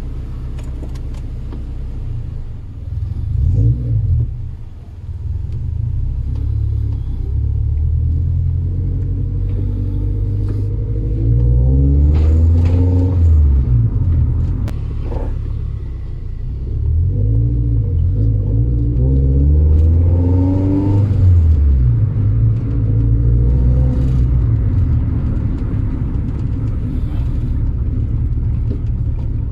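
1996 Honda Civic VTi's four-cylinder engine pulling away and accelerating. Its pitch climbs and drops several times as it shifts up through the gears, with a steady low rumble underneath.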